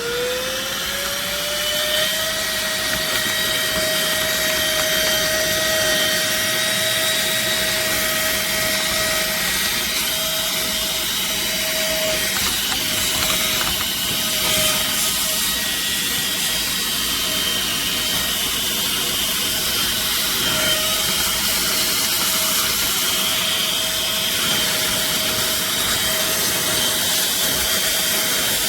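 Hayousui cordless mini keyboard vacuum running: its small motor whines up to speed over the first couple of seconds, then holds a steady high whine over a rush of air.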